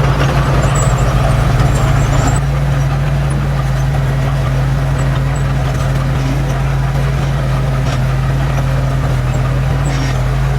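Diesel engine of heavy earthmoving machinery running steadily at a constant speed, a little louder and rougher for the first two seconds or so.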